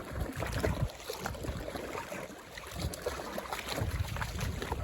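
Shallow lake water splashing and lapping among rocks, with a low wind rumble on the microphone and scattered small clicks.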